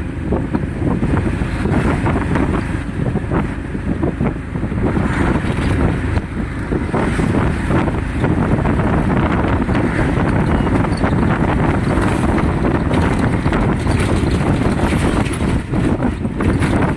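Loud wind buffeting on the microphone: a dense, low rumble that keeps rising and falling.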